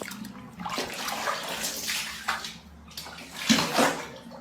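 Water splashing and sloshing in a bathtub in irregular surges, the loudest about three and a half seconds in.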